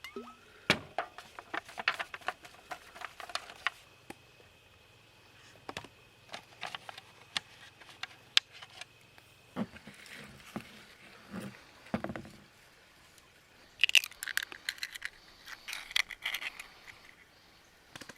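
Small objects being handled: irregular clusters of sharp clicks and clinks with some rustling, and a few duller knocks about two-thirds of the way through.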